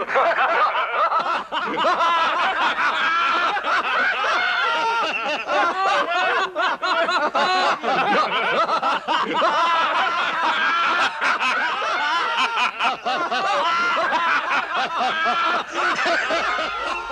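A group of men's voices laughing together, many overlapping chuckles and laughs that go on without a break, laughing at the idea of an airship.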